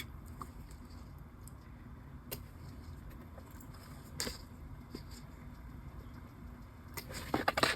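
Quiet paper and washi tape handling on a journal page: a few soft, separate clicks and taps over a low steady hum.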